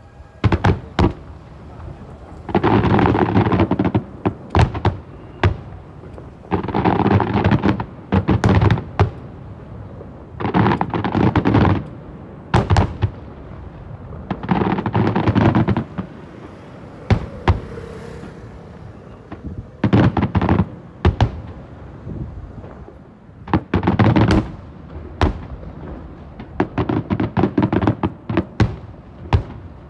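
Aerial fireworks display: volleys of sharp shell bursts and rapid crackling bangs, each lasting a second or two, repeating every few seconds with single loud reports in between.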